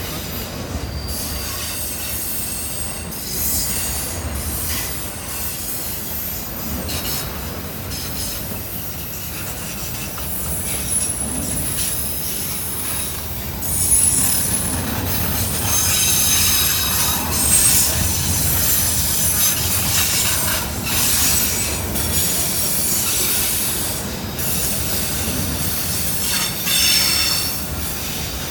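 A long train rolling past close by: a steady low rumble of the cars on the rails, with high wheel squeals that come and go, heaviest in the second half.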